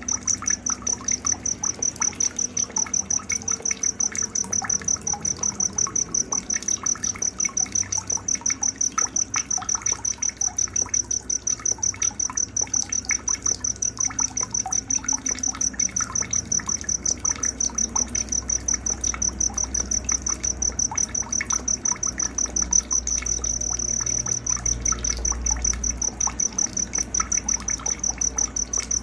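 A cricket chirping in a high, steady pulse, about four pulses a second, with scattered faint bird chirps underneath.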